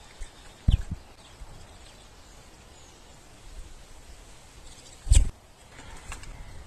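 Outdoor ambience with a few short, high bird chirps, and two dull thumps: one about a second in, one near the end.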